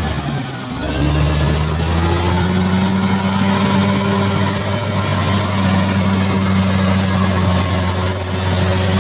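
Bulldozer diesel engine running hard, dipping briefly then picking up and rising in pitch about a second in. Over it, a high metallic squeal from the tracks comes and goes.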